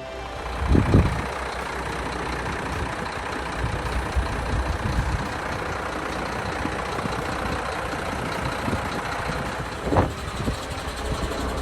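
Mercedes-Benz Axor truck's diesel engine running with a steady low rumble, with two brief louder swells, one about a second in and one near the end.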